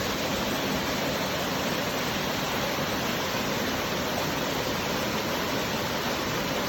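Waterfall: water falling and splashing with a steady, unbroken rushing.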